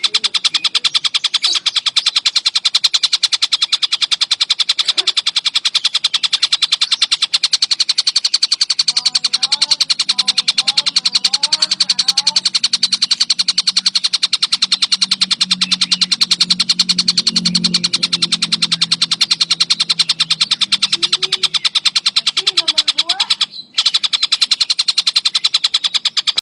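A tengkek buto kingfisher calling in a fast, high-pitched trill that runs on without a pause, breaking off briefly near the end. Fainter chirps and a low hum sit beneath it in the middle.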